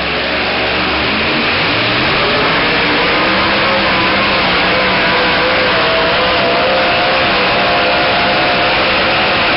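Super modified two-wheel-drive pulling truck's engine running at full throttle under load. It builds over the first second or two and then holds steady and loud, with its pitch climbing slightly about halfway through.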